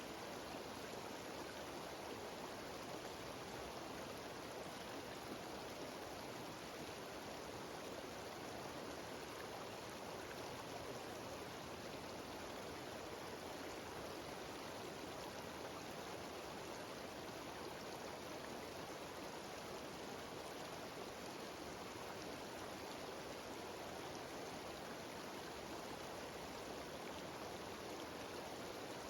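Steady rushing of a cascading mountain waterfall, water spilling over rocks in an unbroken, even sound.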